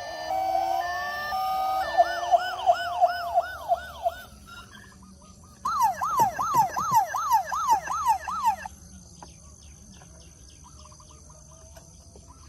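Electronic toy-vehicle sirens: a two-tone hi-lo siren, then rapid sweeping yelp sirens in two bursts that cut off suddenly about two-thirds of the way in, followed by a quieter stretch.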